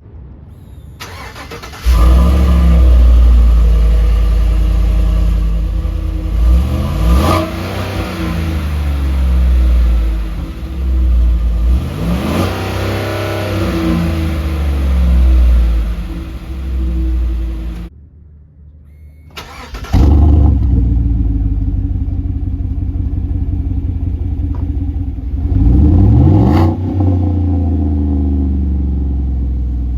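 2017 Chevrolet Silverado's engine with its mufflers deleted, starting about two seconds in and revved several times. After a short break it is running again at idle, with one more rev near the end.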